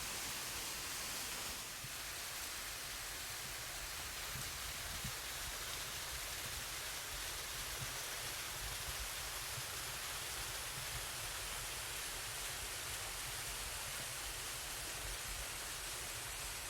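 Small waterfall pouring into its plunge pool: a steady, even hiss of falling and splashing water.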